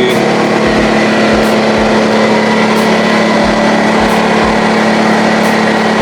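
DeWalt 6-gallon air compressor running steadily: a loud, even motor-and-pump drone with a constant hum, unchanged throughout.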